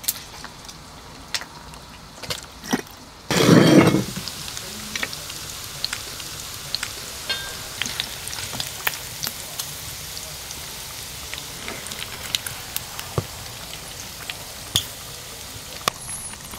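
Food frying in a hot pan, with a short loud burst of sizzling about three seconds in, then a steady sizzle full of crackles and pops.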